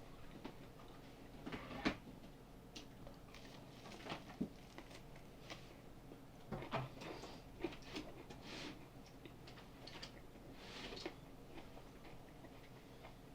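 Raw yellow cucumber being chewed close up: irregular faint crunches and small wet mouth clicks, with a few louder crunches spread through.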